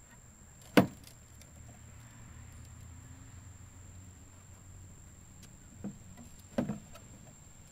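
A single sharp knock about a second in, then two softer knocks near the end.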